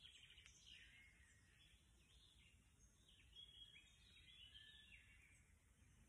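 Near silence with faint birdsong: a songbird gives a string of short, high chirping phrases, one after another, over a low hiss.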